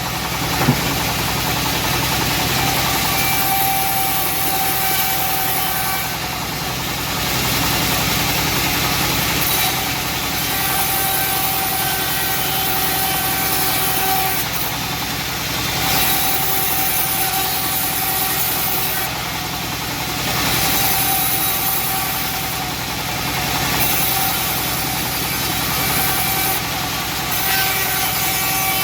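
Homemade engine-driven bandsaw mill running steadily, its level swelling and easing every few seconds. A high steady whine comes and goes in stretches of a few seconds, and there is a single sharp knock about a second in.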